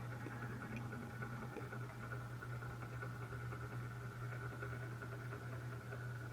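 Faint steady low electrical hum with a thin higher whine above it, unchanging throughout.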